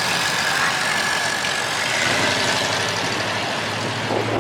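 Car engines idling, with a steady low hum from one engine coming in about halfway.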